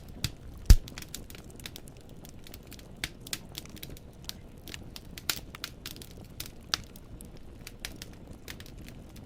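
Wood fire in a fireplace crackling: logs popping in irregular sharp clicks over a low steady rumble of flame, with one loud pop under a second in.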